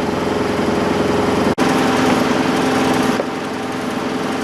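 Sailboat's inboard engine running steadily, with a momentary dropout about one and a half seconds in.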